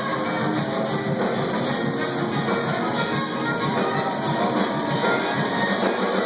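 A live soul-rock band playing an instrumental passage with guitar to the fore over drums, loud and unbroken.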